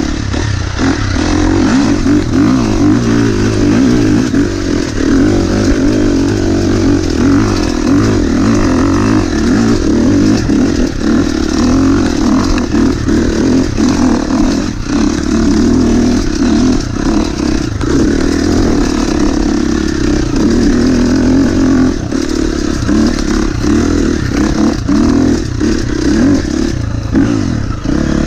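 Dirt bike engine working hard under load up a steep singletrack hillclimb, its pitch fairly steady, with many short knocks and clatter from the bike over the rough trail.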